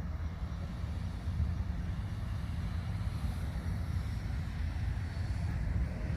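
A steady low rumble with a faint hiss above it, without distinct events.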